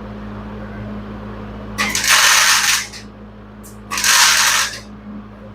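Hobart Handler 140 wire-feed welder laying two short welds, about a second each, a harsh crackle that starts and stops twice, over a steady low hum.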